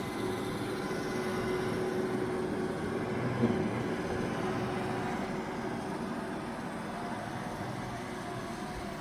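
Roomba robot vacuum running: a steady whirring hum with one short knock about a third of the way through.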